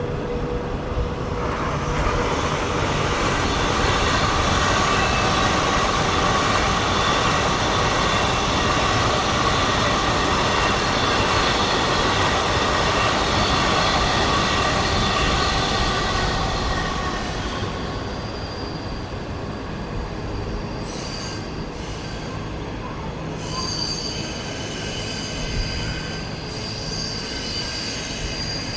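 Train running past with steady wheel squeal: several high ringing tones over a continuous rumble. It eases off after about 17 seconds, leaving a thinner, higher squeal.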